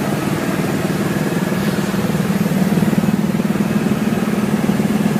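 Helicopter in flight heard from inside the cabin: a steady, loud low drone of engine and rotor with a rapid fine pulsing.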